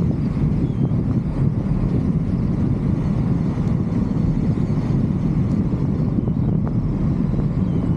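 Steady low rumble of wind buffeting the microphone of a roof-mounted 360° camera, with a few faint ticks.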